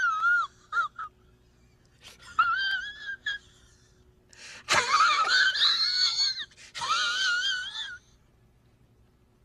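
A high, wavering wheezing wail from a voice with a strong wobble in pitch, heard in about four drawn-out bursts with short pauses between.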